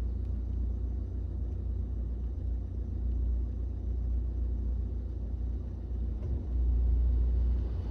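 Low, steady rumble of a car's road and engine noise heard from inside the cabin while driving, swelling briefly near the end.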